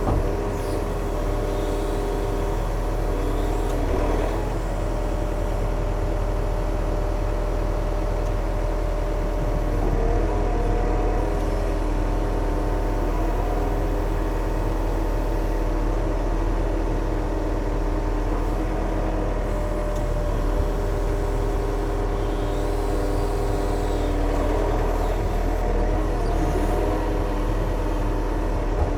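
An engine running steadily, its pitch shifting briefly a few times.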